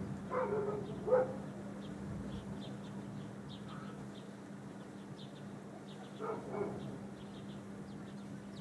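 A dog barking: two barks in quick succession in the first second and a half, then two more about six seconds in.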